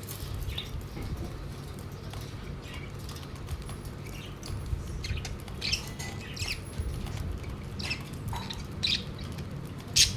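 Pet budgerigars chirping and squawking in short, scattered calls, the loudest near the end, over a steady low hum.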